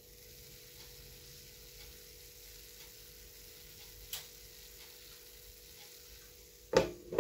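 Syrniki (cottage-cheese pancakes) sizzling gently in oil in a frying pan, a faint steady hiss. A single click about four seconds in, and a louder short burst of sound near the end.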